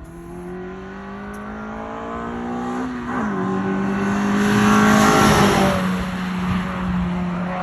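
Suzuki Swift Sport ZC31S's 1.6-litre four-cylinder running through a Suzuki Sport aftermarket muffler, accelerating with its pitch rising. The pitch drops sharply about three seconds in and then holds steady while the sound grows louder, peaking around the middle.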